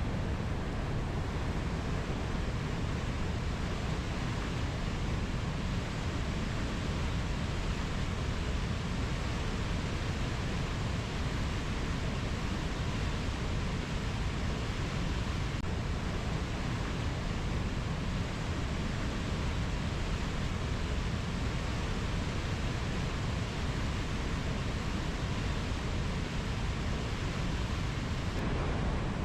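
Steady rushing rainforest ambience: an even, deep noise with no distinct calls or strikes.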